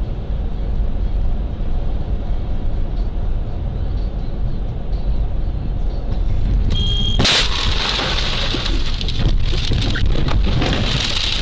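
Dashcam recording of a car on the road: steady road and engine rumble, then about seven seconds in a sudden loud bang with a short high tone just before it, followed by several seconds of scraping and clattering, as of a collision.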